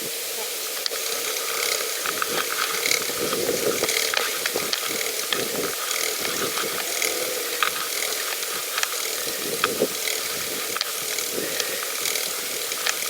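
Pedal bicycle being ridden, its chain and frame giving irregular mechanical clicks and rattles over a steady hiss of tyres and air.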